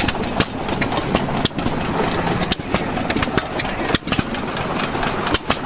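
Antique gas engines running together, with many sharp exhaust beats at uneven spacing over a steady mechanical din.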